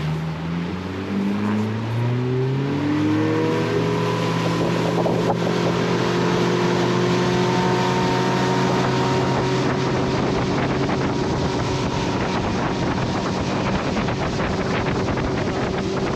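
Boat's outboard motor throttling up, its pitch rising over the first few seconds, then running steadily at cruising speed, with wind rushing on the microphone.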